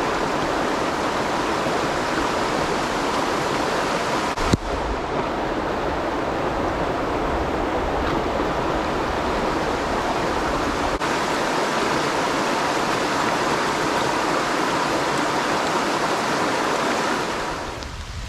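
Creek water running steadily, with one sharp knock about four and a half seconds in. The water sound drops away near the end.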